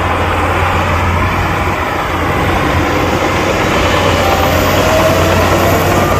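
Heavy diesel engine of earthmoving machinery running steadily with a deep rumble, growing slightly louder in the second half.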